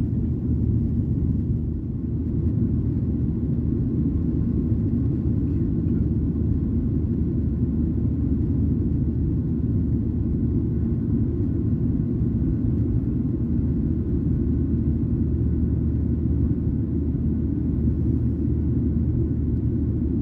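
Boeing 737-800 in flight heard from inside the passenger cabin: a steady low rumble of engine and airflow noise.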